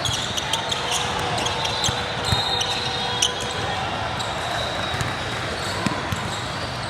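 Basketball game in a gym: a ball bouncing on the court with scattered sharp knocks and clicks, over a steady background of crowd voices.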